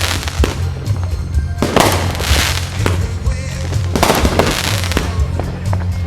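Aerial fireworks going off: several sharp bursts, two of them followed by a second or so of crackling, over background music.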